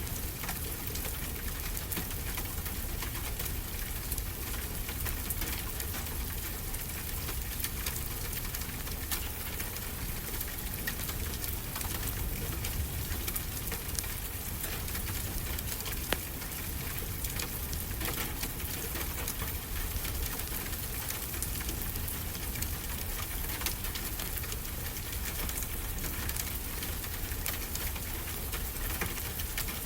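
Wood fire crackling with frequent small pops over a steady low wash of ocean surf.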